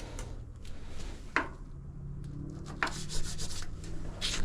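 Hands rubbing and pressing adhesive wheel weights onto an aluminum wheel rim, with a few sharp clicks and a steady low hum underneath.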